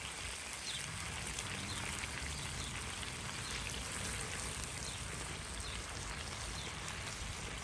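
Chicken sizzling in a non-stick frying pan over a charcoal grill: a steady hiss with fine crackle.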